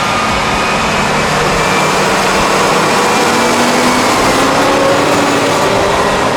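Large farm tractor's diesel engine running hard while pulling a heavily loaded trailer, with a dense roar of noise. Its note rises a little about halfway through.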